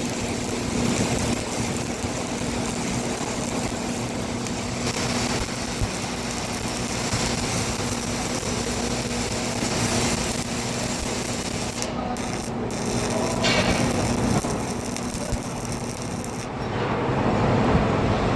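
Arc welding: a steady crackling hiss over a steady hum. The hum stops about fourteen seconds in, and about two seconds later the crackle gives way to a lower rumble.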